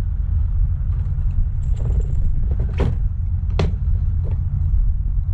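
HPI Savage nitro RC truck's single-cylinder glow engine idling with a steady low rumble, with a couple of short clicks a few seconds in. The idle is set too low while the carburettor needles are being retuned for the warmer weather.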